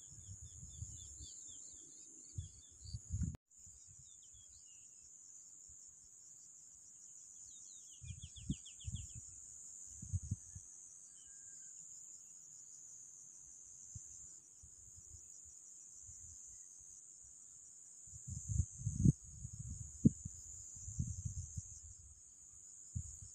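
Steady high-pitched chorus of crickets, with a few short runs of quick bird chirps. Clusters of low thumps and rustles come twice, the louder ones near the end.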